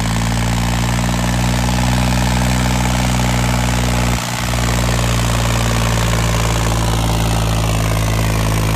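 Tractor diesel engine running steadily under heavy load while pulling in a tug-of-war, with a brief dip in the sound about four seconds in.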